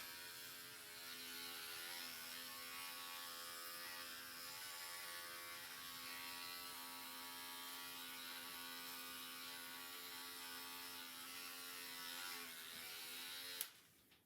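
Electric hair clippers buzzing steadily, then switched off near the end.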